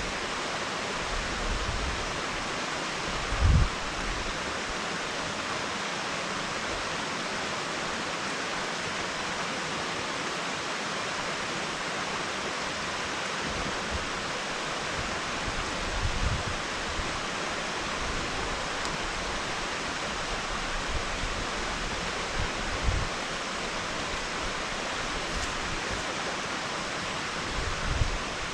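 Waterfall giving a steady, even rush of water. A few brief low thumps sound over it, the loudest about three and a half seconds in.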